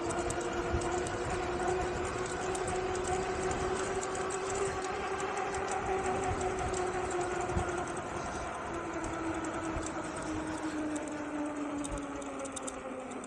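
An Engwe Engine Pro e-bike's 750 W hub motor whining under way over wind and tyre noise. The whine drifts slightly with speed and falls in pitch in the last few seconds as the bike slows.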